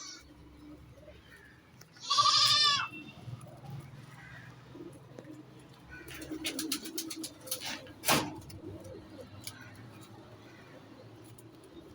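A bird gives one short, loud, wavering call about two seconds in, over a steady low hum; a few faint clicks follow, and a sharp tap about eight seconds in.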